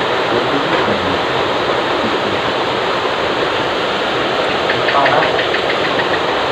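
Steady loud rushing noise, like running water or wind, with a brief run of quick ticks near the end.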